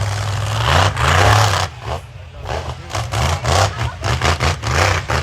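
Monster truck engine at full throttle, dropping off about 1.7 seconds in, then revved in a string of quick short blips.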